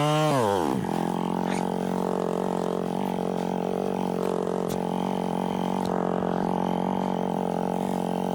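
Yamaha WR250F's single-cylinder four-stroke engine: a throttle blip dies away in the first second, then the engine idles steadily.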